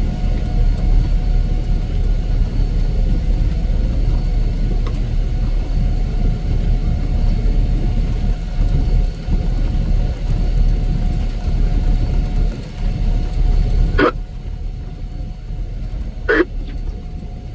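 Heavy snow-removal machinery running: a loud, steady low engine rumble with a faint whine over it. About fourteen seconds in it drops abruptly to a quieter rumble, and two short, sharp squeaks come a couple of seconds apart.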